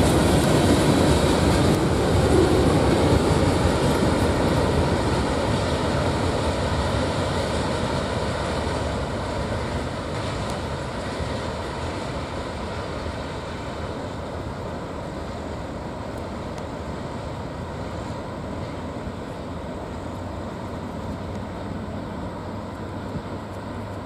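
Steel wheels of a Norfolk Southern rock train's hopper cars rolling over the rails, the sound fading steadily as the end of the train moves away.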